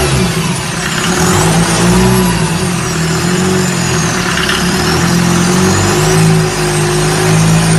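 Freshly overhauled Mercedes engine running on the ground out of the car, a steady loud run with its speed wavering slightly.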